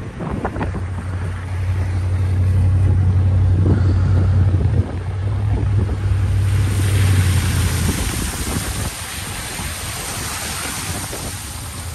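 A vehicle running with a steady low drone, wind rushing over the microphone; a broad rushing hiss swells about halfway through as the drone fades.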